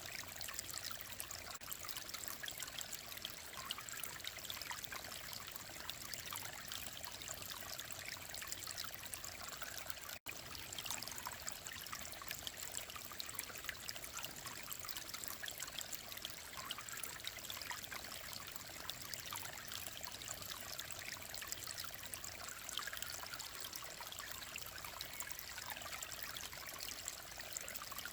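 Mountain valley stream flowing and trickling steadily, with a momentary dropout about ten seconds in.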